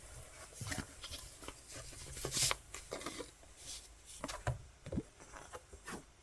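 Handling noise from opening a music album and its contents: a run of irregular short rustles, crinkles and clicks of paper and plastic, loudest about two and a half seconds in.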